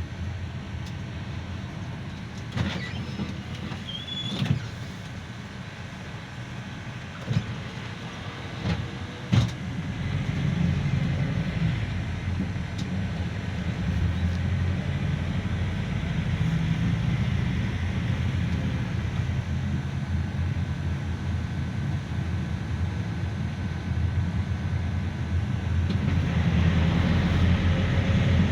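Cabin noise inside a GAZelle Next minibus on the move: engine and road rumble, with a few sharp knocks and rattles in the first ten seconds. About ten seconds in, the engine and road noise grow louder and stay up.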